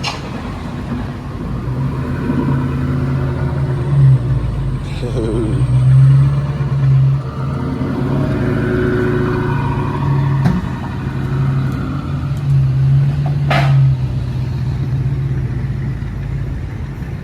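Straight-piped 4.6-litre two-valve V8 of a New Edge Ford Mustang GT cruising, a steady low exhaust drone that swells and eases several times with the throttle.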